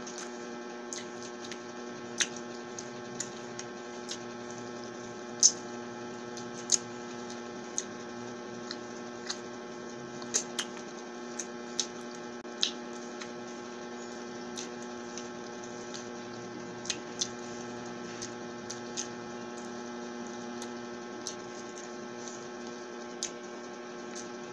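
Close-miked eating of chicken adobo: chewing with sharp mouth clicks and smacks at irregular intervals. A steady electrical hum runs underneath.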